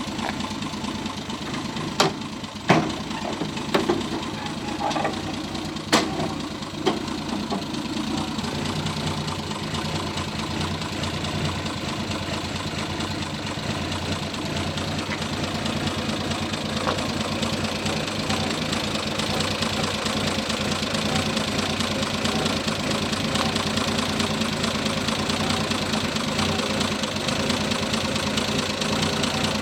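1967 Triumph Vitesse's 2-litre six-cylinder engine idling steadily. A handful of sharp clacks and knocks in the first seven seconds come from the tilting bonnet being unlatched and raised.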